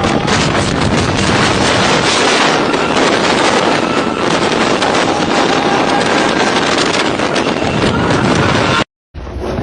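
Loud, steady rushing noise with wind buffeting the microphone; it cuts off abruptly near the end.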